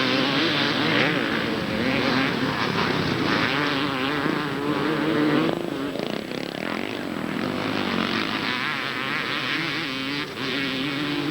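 Several two-stroke motocross bikes racing, their engines revving up and down in wavering, overlapping pitches; the sound drops back a little about halfway through.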